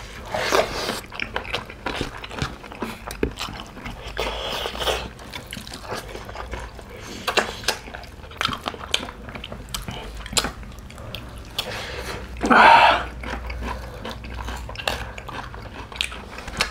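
Close-up eating sounds: wet chewing, lip smacking and sucking on curried mutton eaten by hand, with a louder slurp about three quarters of the way through.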